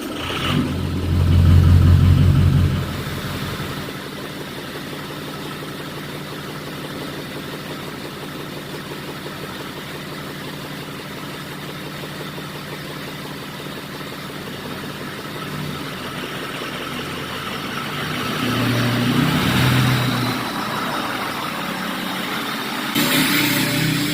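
Ford 6.0 Powerstroke V8 turbodiesel running just after a start: a loud surge for the first few seconds, then a steady idle. It picks up again near the end as the truck is driven off.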